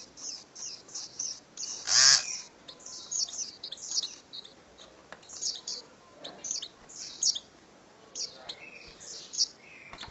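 Small birds chirping in quick, high-pitched runs of short notes, with one louder, lower call about two seconds in.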